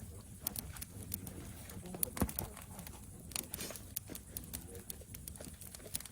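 Campfire crackling: irregular sharp pops and snaps of burning wood.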